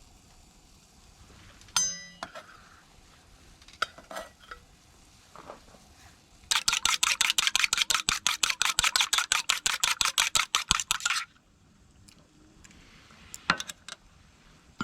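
Tableware clinking, then about five seconds of fast, even strokes of a utensil beating in a bowl, roughly eight or nine a second, ending abruptly. A couple of light clicks follow near the end.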